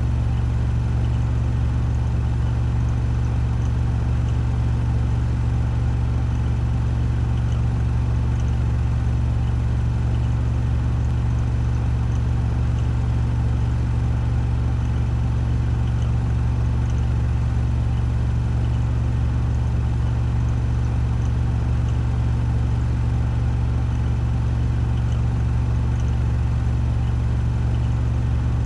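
Washing machine drum on a 1400 rpm spin cycle, running at full speed with a steady, unchanging deep hum.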